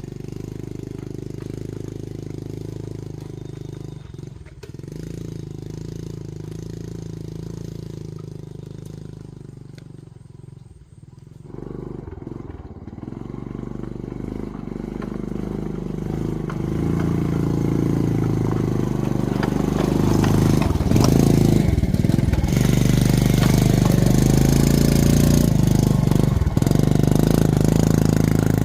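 Motorcycle engine running steadily, fading briefly about ten seconds in, then growing louder through the second half.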